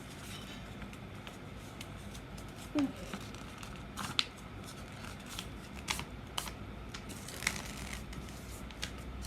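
A sheet of paper being folded and creased by hand: scattered crisp rustles and light taps, with a louder crinkle now and then.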